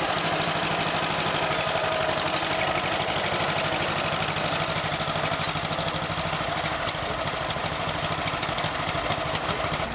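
Vintage tractor engine running steadily, with an even, rapid firing beat.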